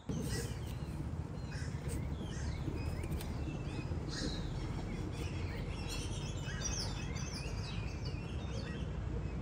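Small birds chirping and twittering, many short quick calls overlapping, over a steady low rumble of outdoor background noise.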